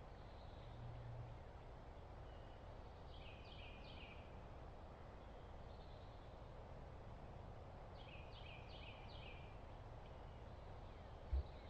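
A bird singing short phrases of three or four quick downslurred notes, repeated every four to five seconds over a faint steady outdoor hiss. There is one brief low thump near the end.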